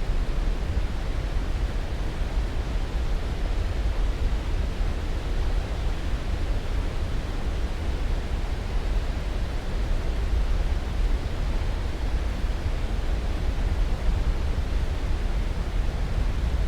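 Steady, unchanging sleep-aid noise, a deep even hiss heaviest in the low end and softer in the highs, like pink noise.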